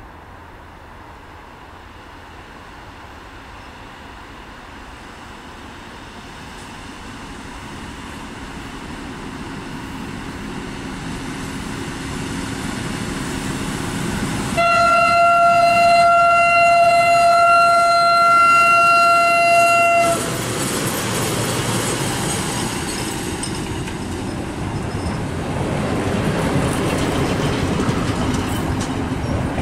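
SM42 diesel locomotive with a passenger train approaching, growing steadily louder. About halfway through it sounds a long, steady horn of about five and a half seconds. Then the rumble and wheel clatter of the passing train build up.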